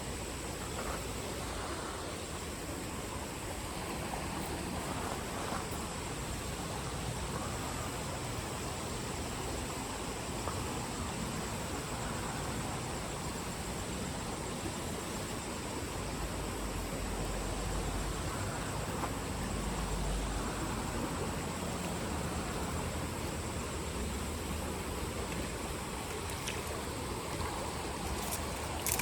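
Creek water running steadily over a riffle, an even rushing sound.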